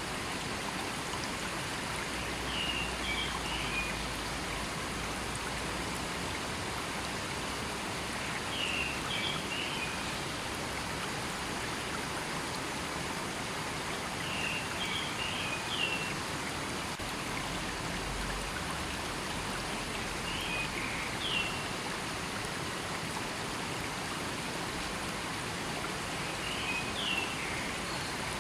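River water flowing in a steady, even rush. Short high chirps recur about every six seconds over it.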